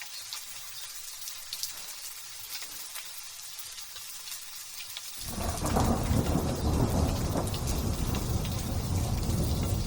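Light drizzle falling, with scattered drop ticks. About five seconds in, loud thunder breaks in with a sudden deep rumble that keeps rolling.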